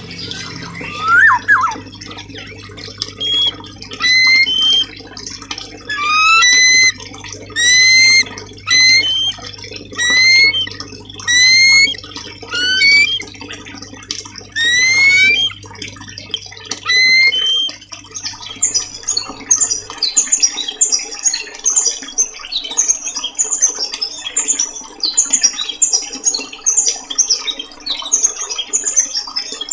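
Recorded songbird song used as a masteran track for training caged birds: loud rising whistles repeated about every second and a half. From about 18 s in, the whistles give way to a quick, high twittering.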